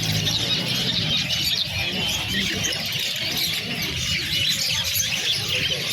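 A flock of small caged pet birds chirping and chattering all at once, a dense, continuous twittering with no pause.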